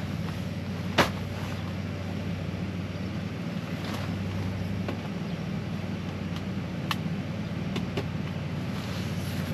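Portable air conditioner running with a steady hum, its compressor on and cooling. A few sharp clicks and knocks on top, the loudest about a second in.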